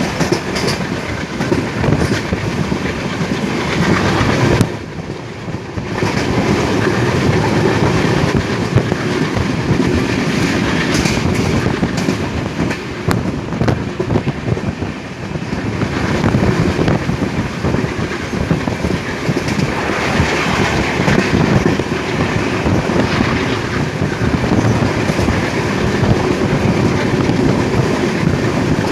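Passenger train running at speed, heard from on board: the steady rumble and clatter of the coach's wheels on the rails. About five seconds in the noise drops sharply for a second or so, then returns.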